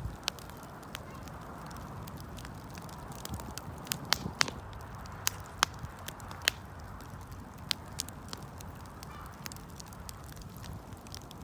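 Wood campfire burning: a steady low rush of flame with irregular sharp pops and crackles of burning wood, several louder snaps around the middle.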